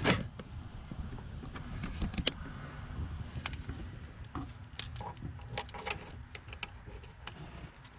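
Scattered light metallic clicks and taps of hand tools as a loosened spark plug is drawn out of its deep well on a 5.4-litre Ford V8 with a magnet, over a low rumble of handling noise.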